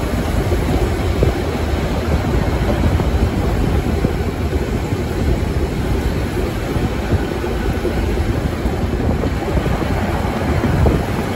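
Metre-gauge steam train running, heard from the open end platform of a coach: a steady rumble and rattle of wheels on rails and the swaying coach, with wind on the platform.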